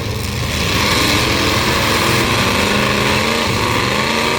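Engines of demolition derby trucks running and revving, their pitch rising at times.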